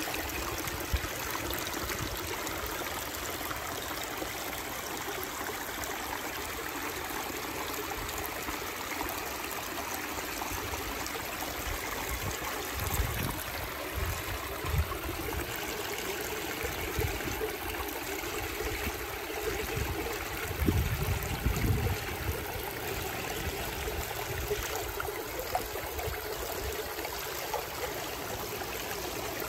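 Water spilling steadily over the small-river-rock weir of a negative edge waterfall into a reservoir, a continuous trickling flow. A few low bumps break through about halfway in and again a little later.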